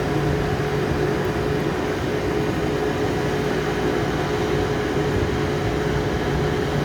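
A standing railway locomotive running steadily: a constant mechanical hum with a steady low tone.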